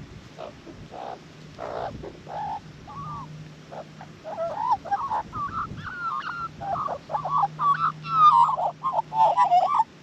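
Australian magpie calling at close range: a run of gurgling, warbling notes that grows busier and louder about halfway through and breaks off abruptly at the end.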